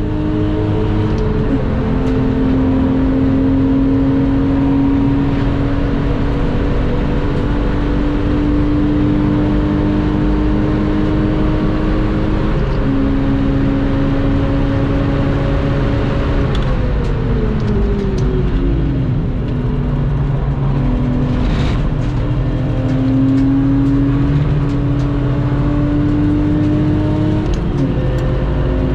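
Lexus IS200's engine pulling hard on track, its pitch climbing slowly through the gears. It drops suddenly at each upshift, about a second in, around thirteen seconds in and near the end. Past the middle the pitch falls away over a few seconds as the revs come down, then climbs again, with steady road and wind noise underneath.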